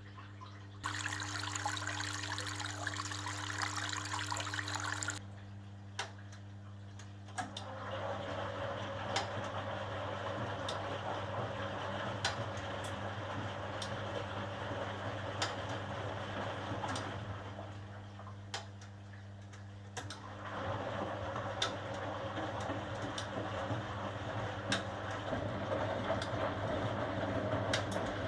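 HUWA Automatic Standard 4 washing machine at work: water rushes in through the inlet for about four seconds, then the drum turns and sloshes the wash water with scattered clicks, stopping briefly about two-thirds of the way through before tumbling again. A steady low hum runs underneath.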